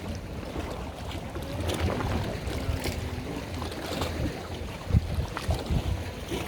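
Wind buffeting the microphone over a low, steady rumble of a boat on the water, with a few sharp knocks about five seconds in.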